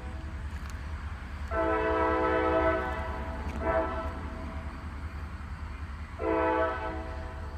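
Train horn blowing a long blast, a short one and another long blast over the steady low rumble of the train. This is the end of the long-long-short-long signal sounded at a grade crossing.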